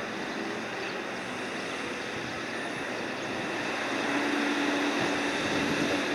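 Cargo crane's engine and winch running steadily while lifting loads off a ship's bow deck, with a steady hum that swells louder about four seconds in.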